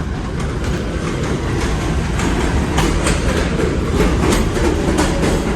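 New York City subway train pulling into the station: a low rumble growing louder, with the rapid clatter of wheels over rail joints.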